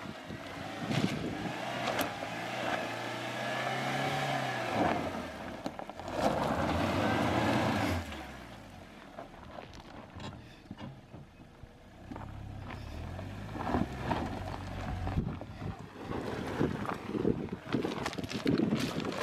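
Suzuki Jimny's engine pulling in a low gear over a rough off-road lane, revving up and easing off, with knocks and rattles from the vehicle on the uneven ground. About six seconds in there is a louder rushing noise for a couple of seconds, after which the engine note drops away before picking up again.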